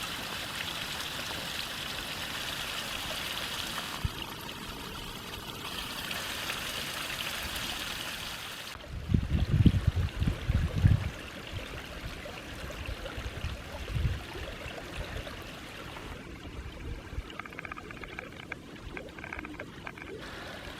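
Meltwater from a February thaw trickling and running in a small woodland stream. Loud low thumps on the microphone for about two seconds near the middle.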